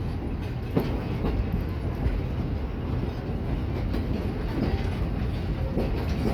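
Steam-hauled heritage train rolling along the line: a steady low rumble with irregular clicks of the wheels passing over rail joints.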